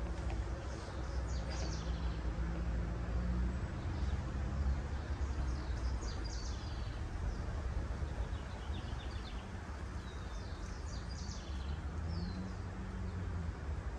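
Small birds chirping in short high bursts several times, over a steady low background rumble.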